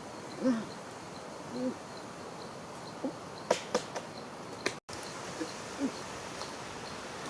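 A few short, low animal calls that bend in pitch, over a faint steady insect ticking about three times a second, with a quick run of sharp clicks midway.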